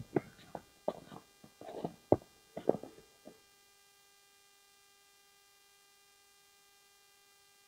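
A few irregular crunching footsteps on the forest floor for about three seconds, then near silence with a faint steady hum.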